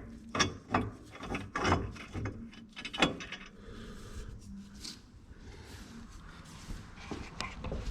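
Clicks and knocks of hand tools working on metal parts, several in quick succession in the first three seconds, then sparser.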